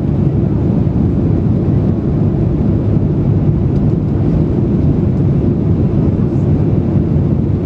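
Airbus A330-300 cabin noise: a steady, loud low rumble of the jet engines and rushing air, heard from inside the passenger cabin.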